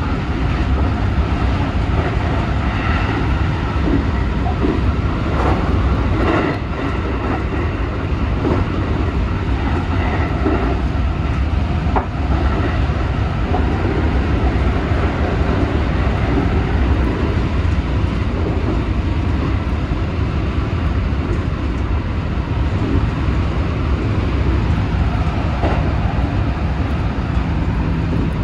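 Running noise of a JR West 223 series 2000-subseries electric train heard from the driver's cab: a steady rumble of wheels on rail, with a few sharp clicks over rail joints.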